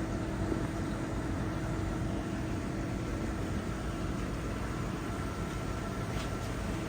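Steady hum and hiss of indoor room tone among store aquarium tanks, with a faint steady tone over it.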